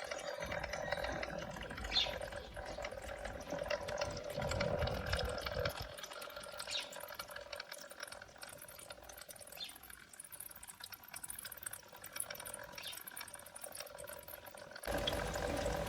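Rain-cloud humidifier running, water dripping from the cloud into the base: a light, steady trickle with now and then a single louder drop, over a faint steady hum.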